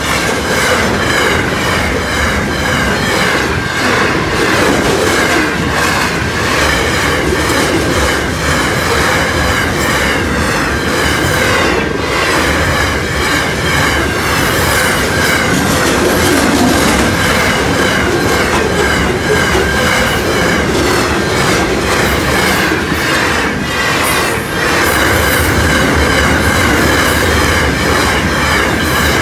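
Freight train wagons rushing past at speed, wheels clacking over the rail joints, with a steady high-pitched ring running through the noise.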